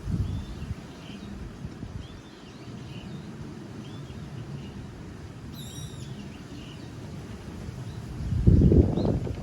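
Autumn wind buffeting the microphone as a low rumble, with small birds chirping now and then; a stronger gust comes near the end.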